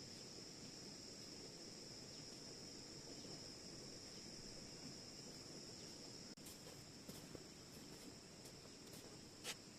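Faint steady insect chorus: a continuous high trill. A few light clicks come in the second half, with a sharper tap near the end.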